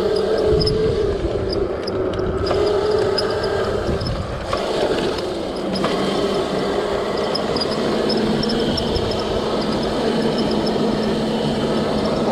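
Electric dirt bike being ridden: a steady motor whine over rushing wind and tyre noise. The whine drops to a lower pitch about five seconds in.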